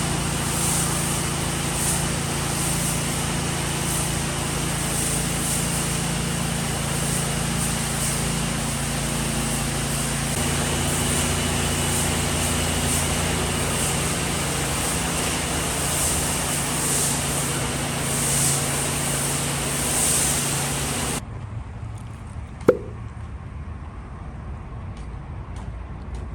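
A gas pressure washer's engine running steadily with high-pressure water spraying. It cuts off abruptly about 21 seconds in, leaving a quieter background with a single sharp click.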